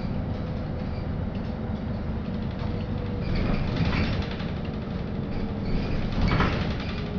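Inside the cabin of a moving LiAZ-5292.65 city bus: a steady low running rumble with a faint steady whine. Two louder rushes of rattling noise come about halfway through and near the end.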